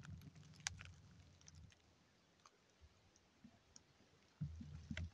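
Near silence, with a faint low rumble at first, a few soft clicks, and faint low thuds starting near the end.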